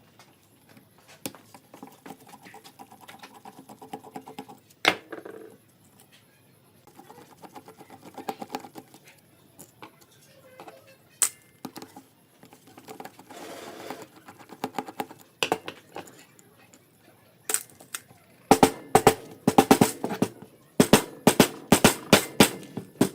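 Irregular clinks and knocks of metal carburetor parts being handled and worked on, some ringing briefly, scattered at first and then coming thick and fast near the end.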